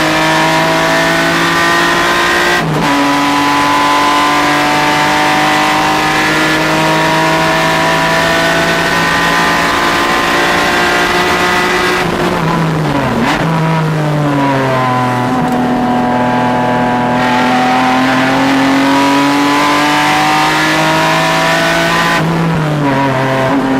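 A car engine under hard acceleration on a racetrack lap, its note climbing steadily through the revs. It drops suddenly as it shifts up about three seconds in. Around halfway there is a quick run of pitch jumps as it shifts down for a corner, then it pulls up through the revs again, with another shift near the end.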